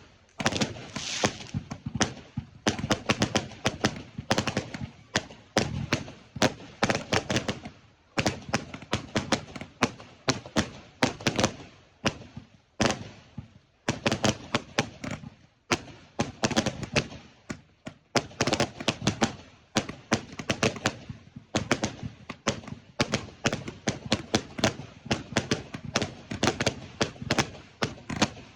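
Fireworks going off in rapid, near-continuous succession: many sharp bangs a second, with brief lulls every couple of seconds.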